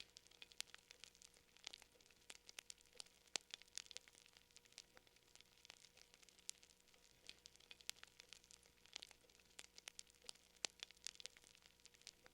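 Faint fire crackling: irregular sharp pops and snaps, coming unevenly several times a second.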